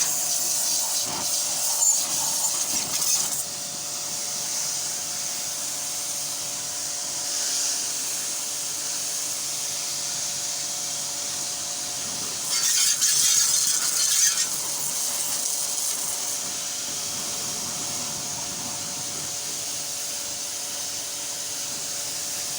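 Car wash equipment running: a steady hiss over a machine hum, louder at the start and again for about two seconds near the middle.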